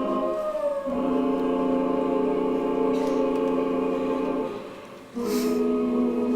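Ballet score with a choir holding sustained chords. The chord shifts about a second in; near the end the sound fades briefly, then a new chord enters with a short splash of hiss.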